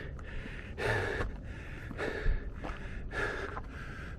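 A man breathing hard, a quick run of loud in-and-out breaths about once a second, winded from a steep uphill climb.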